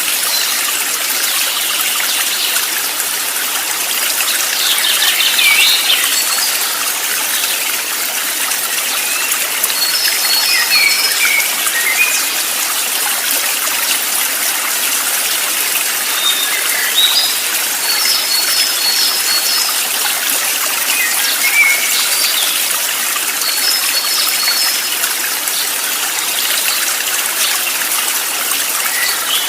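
Water flowing steadily in a stream, with birds chirping over it in short high phrases every few seconds, some of them quick runs of repeated notes.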